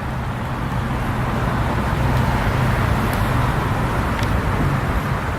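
Steady rumble of road traffic, swelling slightly about two seconds in.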